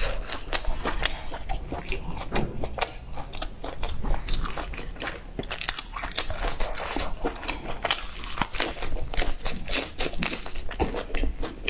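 Chewing and biting a mouthful of lettuce-wrapped fried sausage, with many irregular crisp crunches.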